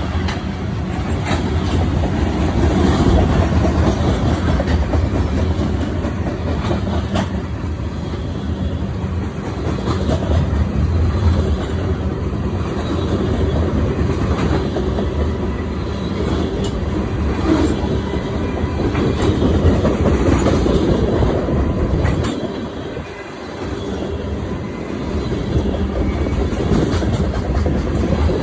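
Freight train of tank cars rolling past, steel wheels clacking over the rail joints over a steady rumble. The low rumble eases for a couple of seconds near the end.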